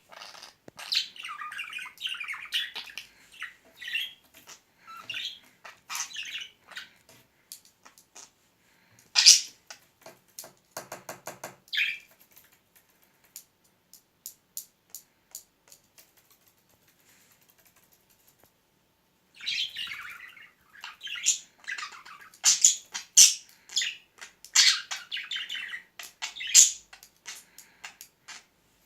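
Pet budgerigar chirping and chattering in spells, with a burst of rapid clicking in the middle and a quiet stretch of several seconds before the chatter starts again.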